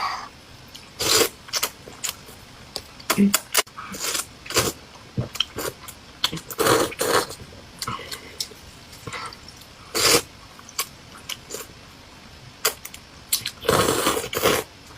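Close-miked eating sounds: a person slurping and chewing food in irregular short bursts, with a longer, louder stretch near the end.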